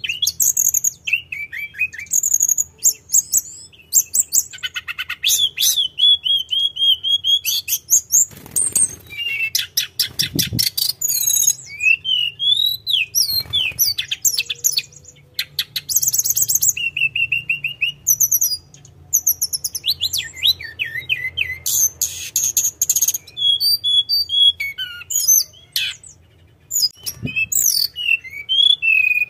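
Tledekan gunung singing without pause in rapid, varied phrases of high whistles, trills and sliding notes. A few soft low thumps come through, and a faint hum sits underneath.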